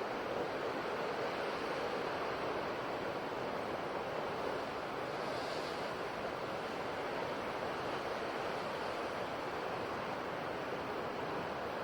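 Ocean waves washing onto a shore, an even, unbroken rush of surf.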